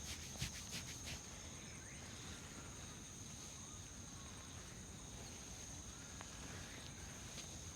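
Quick rhythmic rubbing strokes of hands working over hair and scalp in a head massage, stopping about a second in. After that, a quiet background with a steady high-pitched insect drone.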